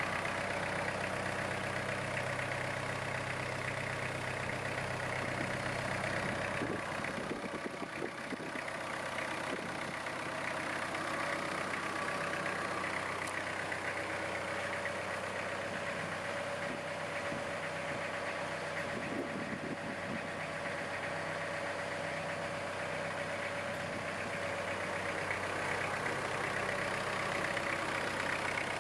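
Iseki GEAS41s tractor's diesel engine running steadily, its note changing about seven seconds in.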